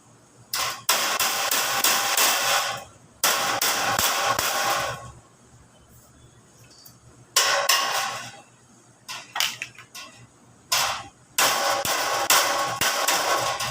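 Plain metal sheet being worked and bent by hand. There are repeated bursts of scraping, rattling metal noise, each a second or two long, with short pauses between them.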